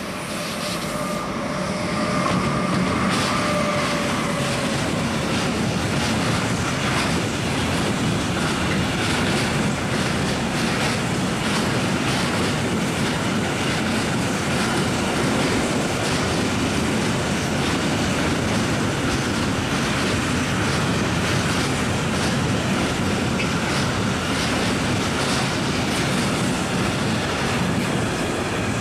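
Intermodal freight train with wagons carrying swap bodies and semi-trailers rolling past: a steady rumble with the wheels clacking throughout, and a thin whine during the first few seconds as the head of the train passes.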